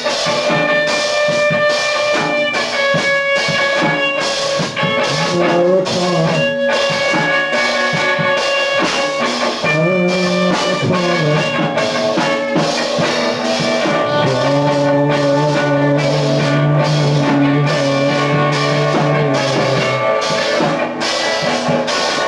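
Lo-fi rock band playing an instrumental passage: guitars holding sustained notes over a steady drum-kit beat, with a low bass line entering about fourteen seconds in.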